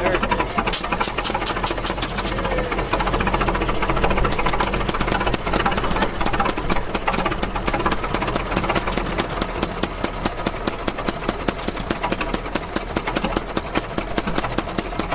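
Antique gas engine running with a rapid, even clatter of strokes, several a second.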